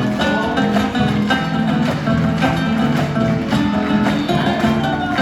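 Acoustic guitar strumming a lively gato, the fast Argentine folk dance rhythm.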